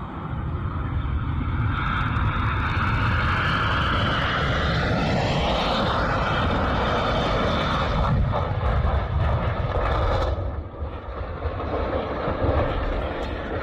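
Jet airliner's engines running loud as it passes close by. The pitch falls around five seconds in as it goes past, and the sound eases off near the end.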